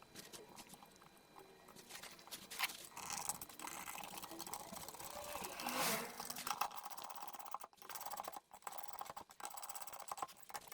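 Light clicks, knocks and rattles of hand tools and metal parts while the thermostat housing is refitted over its new gasket and bolted down.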